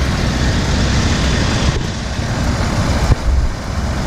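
John Deere 3300 combine running steadily with a heavy low rumble, with one short knock about three seconds in.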